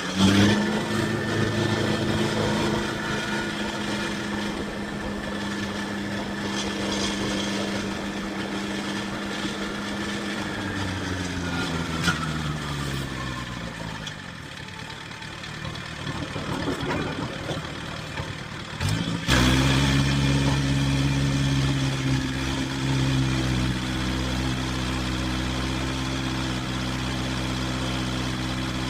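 A vehicle engine running steadily, its pitch falling as it slows down about eleven seconds in; after a sudden change about two-thirds of the way through, an engine runs steadily again at a lower pitch and louder.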